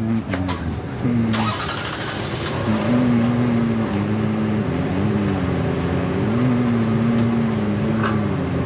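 2007 Honda Pilot's 3.5-litre V6 running, its engine speed rising and falling several times. The engine is faulty.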